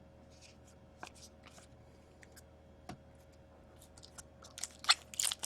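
Trading cards being handled, with scattered faint clicks and rustles, then louder crinkling of plastic or foil wrapping starting about four and a half seconds in.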